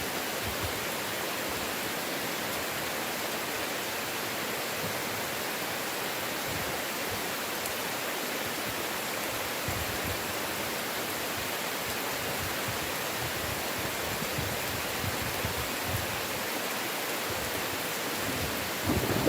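Heavy rain falling steadily as an even hiss. Near the end a low thunder rumble begins to build.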